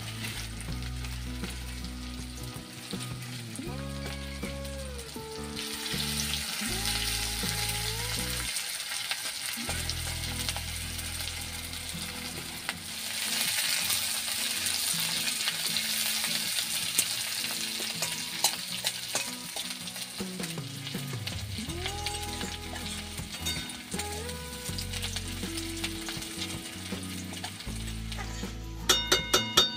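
Sliced onions sizzling in hot mustard oil in a metal wok while being stirred with a steel spatula. The sizzle grows louder in the middle, and a quick run of sharp clicks comes near the end.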